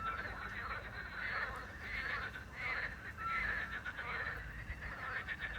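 A chorus of frogs croaking in rough, overlapping runs. A small owl gives a short, even whistled note near the start and again about three seconds later.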